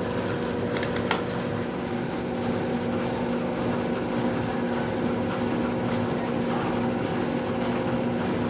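Electrolux LF75 top-loading washing machine running through its cycle, its motor giving a steady hum, with two light clicks about a second in.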